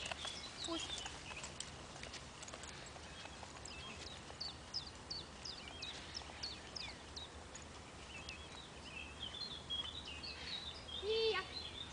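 Wild birds singing: a run of short high chirps about two a second, then a faster warbling phrase. Near the end comes a louder, short pitched call.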